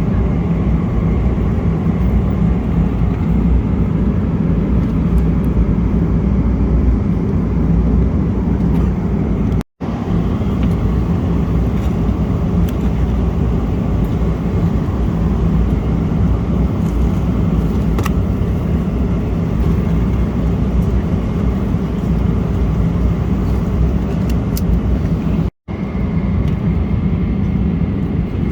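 Steady low drone of cabin noise inside a Boeing 777-300ER in cruise, from its engines and the airflow along the fuselage. It cuts out completely for a split second twice.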